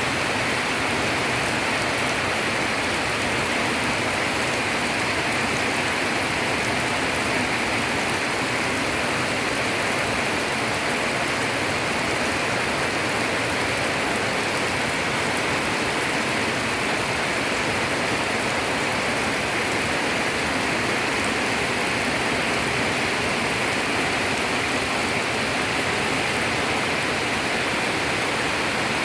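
Rain falling steadily, an even hiss that holds the same level throughout.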